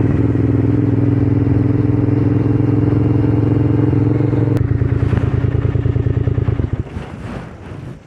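Triumph Scrambler 900's parallel-twin engine running at a steady pitch. About halfway through it eases off, with each firing pulse becoming distinct, and near the end the engine sound drops away sharply.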